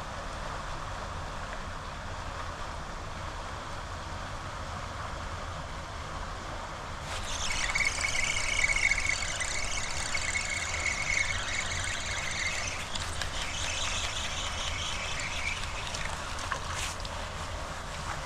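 Steady rush of floodwater at a storm drain. About seven seconds in, a high whirring squeal with one thin steady tone comes in over it, lasts about nine seconds and stops.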